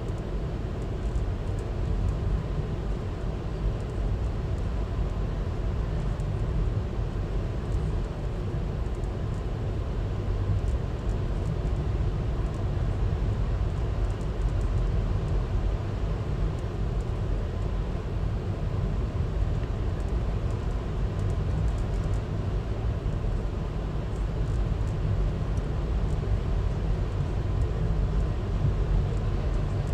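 Steady low rumble of a VIA Rail passenger train running along the track, heard from on board, with faint light ticks over it.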